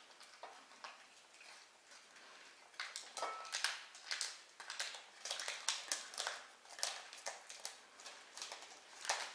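A small kitten eating, with short irregular smacking and chewing clicks, about two or three a second, starting about three seconds in.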